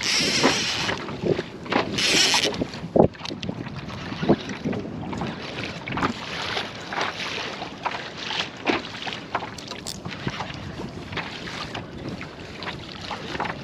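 Water sloshing and splashing against a fishing kayak's hull, with wind buffeting the microphone; two louder splashing hisses in the first few seconds.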